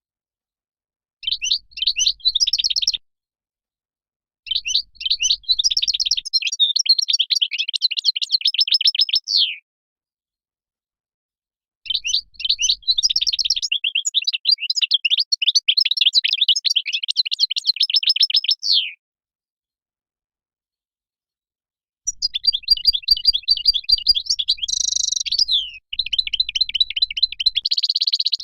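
European goldfinch song: fast, tinkling twittering phrases in four bursts of several seconds each, separated by silent gaps of a few seconds.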